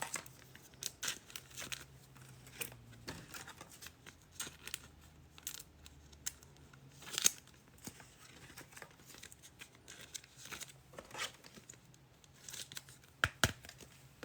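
Trading cards and their packaging being handled: irregular crinkling, rustling and small clicks, with a sharper click about seven seconds in and two more near the end.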